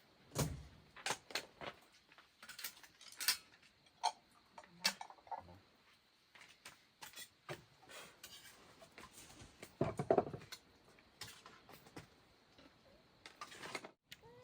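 A scattered series of irregular clicks, taps and knocks, with the loudest cluster about ten seconds in.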